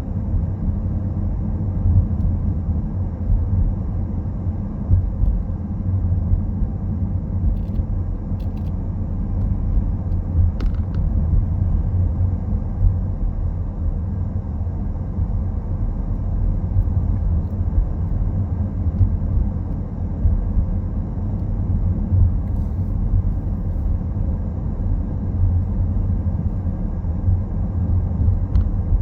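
Steady low rumble of a car driving: tyre and engine noise, with a few faint clicks along the way.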